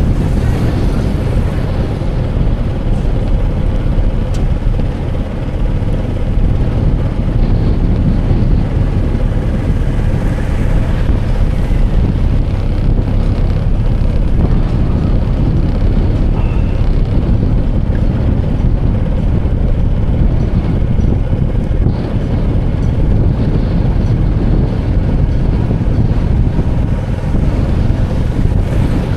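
Wind buffeting the microphone over a steady low rumble, with a faint constant hum underneath.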